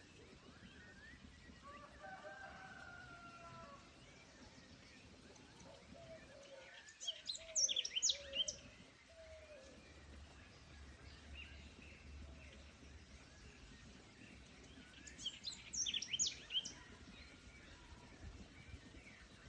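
Wild birds calling in a forest: two quick bursts of high, bright songbird chirping, one about a third of the way in and one near three-quarters, and a lower drawn-out call early on, over a faint steady background hush.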